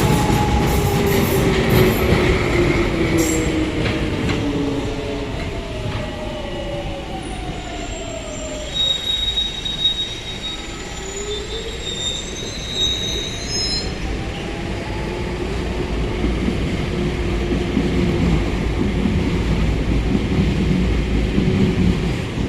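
Electric trains at a station platform: traction motors whining down in pitch over the first few seconds as a train slows, a thin high wheel squeal from about eight to fourteen seconds, and a whine rising in pitch as a train pulls away, over a steady rumble of wheels on track.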